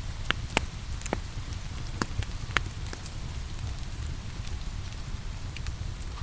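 Wood fire crackling with scattered sharp pops, the loudest few in the first three seconds, over a steady hiss of rain.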